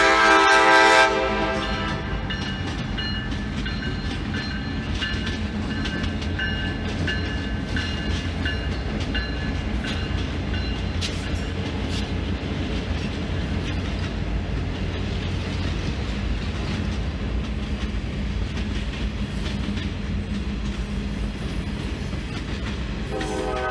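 A locomotive's air horn sounds a chord that cuts off about a second in, then a train passes with a steady low rumble on the rails. The horn starts again near the end.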